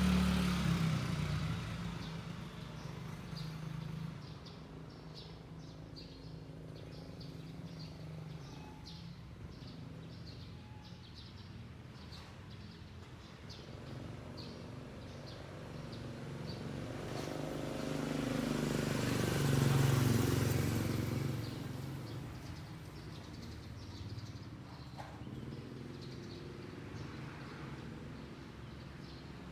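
Street ambience. A motor vehicle passes at the start and fades over the first few seconds. A second one approaches, passes loudest about two-thirds of the way through with a low engine hum, then fades. Small birds chirp in short high notes again and again throughout.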